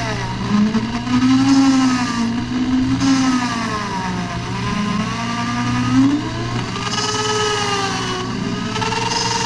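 Electric drill spinning a new valve against its seat to lap it in with coarse grinding compound, the motor's whine rising and falling in pitch as the trigger speed is varied.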